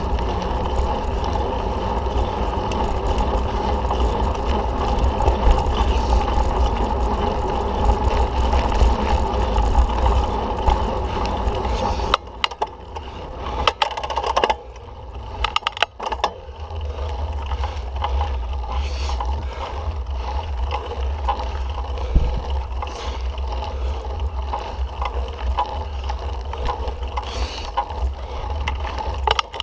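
Mountain bike ridden along a dirt trail: wind rushing over the microphone, with tyre noise and the bike rattling. About twelve seconds in the rush drops off for a few seconds, leaving sharp clicks and rattles, then it picks up again.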